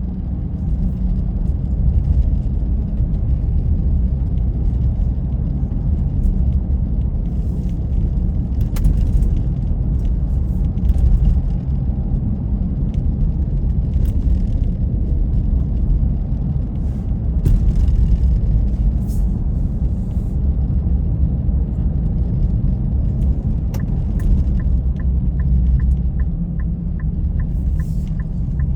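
Car driving, a steady low rumble of engine and road noise. Near the end a regular light ticking starts, about two to three clicks a second.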